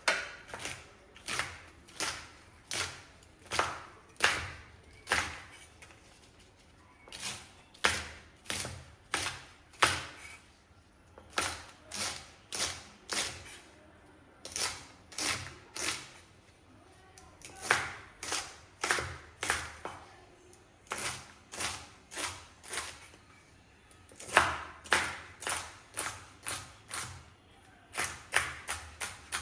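A knife chopping on a cutting board: sharp, steady strokes about two a second, in runs of several with short pauses between them.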